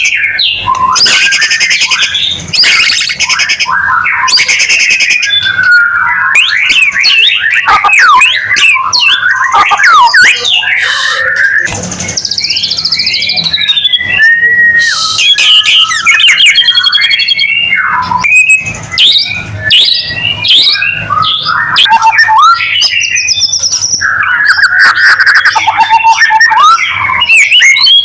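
White-rumped shama (murai batu) singing nonstop in a loud, varied stream of whistled phrases, sweeping notes, rattles and fast trills.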